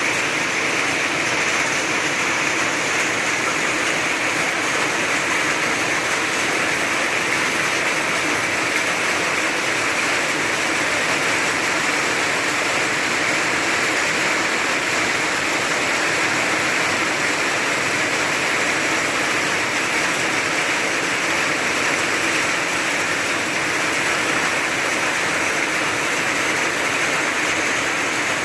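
Rain falling steadily, an even hiss that never lets up.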